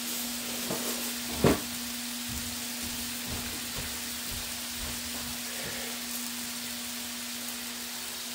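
Chicken pieces sizzling in oil on a hot grill, a steady frying hiss, with a steady hum underneath. A single sharp knock comes about a second and a half in, and a few soft taps follow.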